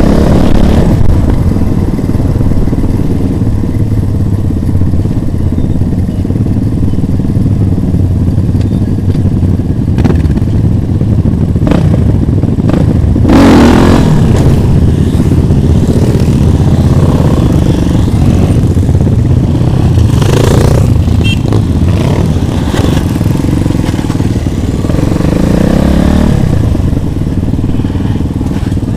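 Motorcycle engine running steadily, with brief louder surges about halfway through and again a few seconds later.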